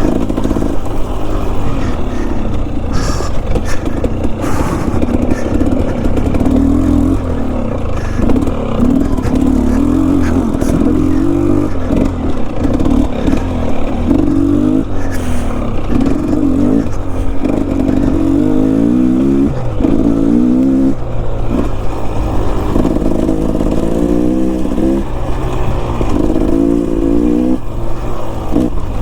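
Enduro dirt bike engine revving up and down over and over, its pitch climbing and dropping as the throttle is worked on a steep technical trail climb, with a few sharp knocks from the bike over rough ground.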